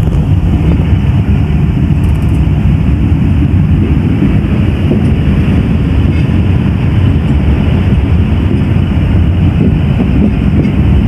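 Passenger train running along the track, heard as a steady, loud low rumble of wheels on rails mixed with wind noise.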